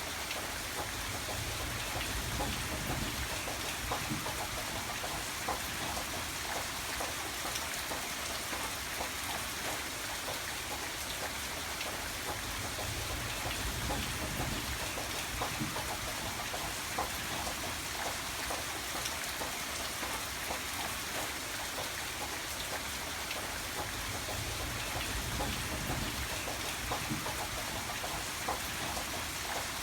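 Steady rain falling on a surface, a dense patter of drops, with a low rumble swelling softly a few times.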